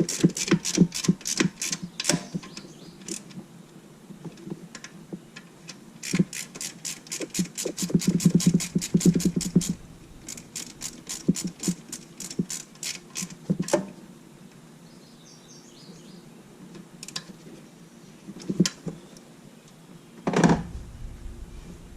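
Ratchet wrench clicking in quick runs of about six clicks a second, with pauses and a few single clicks between runs, as it works a spark plug. A dull thump about twenty seconds in.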